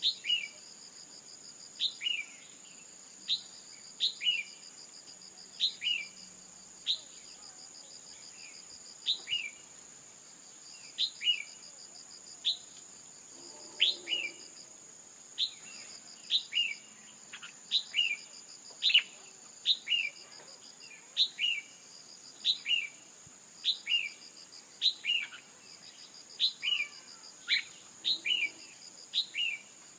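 Female red-whiskered bulbul calling: short, sharp chirps that slide downward, repeated about once a second, the female call used to rouse male bulbuls into song. Under them runs a steady high insect drone with a pulsing trill.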